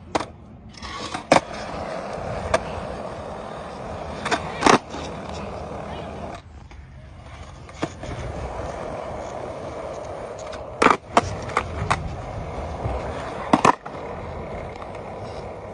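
Skateboard wheels rolling steadily on a skatepark's ground, broken by sharp clacks of the tail popping and the board landing several times as the skater pops and lands tricks. The rolling dies down briefly about six seconds in, then picks up again.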